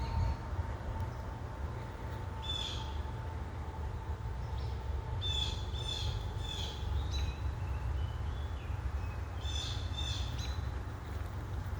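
An unidentified bird calling: short, high calls, one a few seconds in, a quick run of several about halfway through, and two more near the end, over a steady low rumble.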